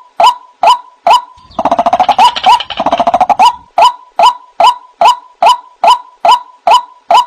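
White-breasted waterhen (ruak-ruak) calling over and over, a short note about two or three times a second. Its regular beat breaks into a fast run of notes for about two seconds partway through, then returns to the steady calls.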